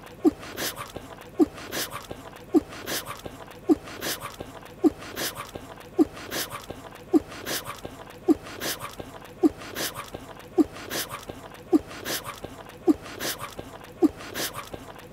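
Anime chewing sound effect: a mouth chewing food with a sharp click and a short squeak on each chew, repeating evenly about once a second.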